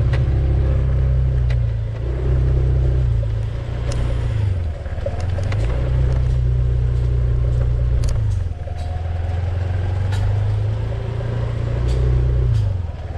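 Vehicle engine running on the move, its low drone rising and dropping in pitch several times, with scattered short clicks and knocks.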